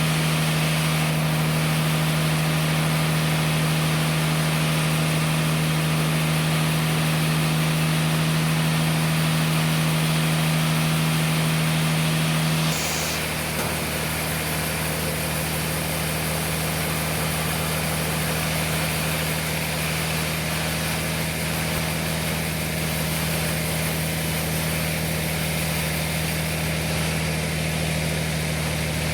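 Sawmill engine running steadily with a continuous hum. About 13 seconds in, the tone changes suddenly and the sound gets a little quieter.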